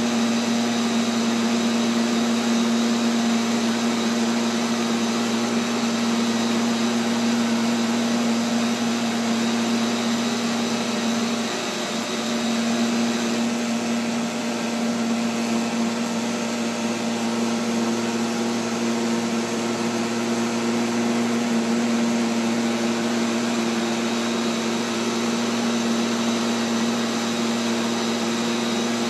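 Neato XV-11 robotic vacuum running, heard from a camera mounted on it: a steady motor hum with a strong low tone and a hiss, dipping slightly about twelve seconds in.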